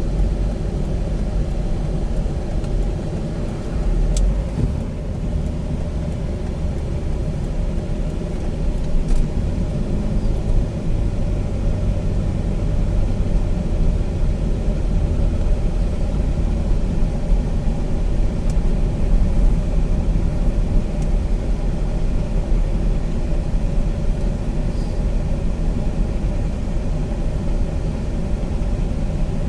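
Steady road and engine rumble inside a car's cabin while it is being driven.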